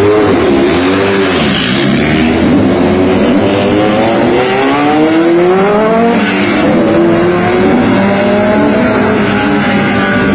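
Race car engine at high revs, wavering up and down at first, then climbing in pitch, dropping back once about six seconds in and climbing again as it accelerates through the gears.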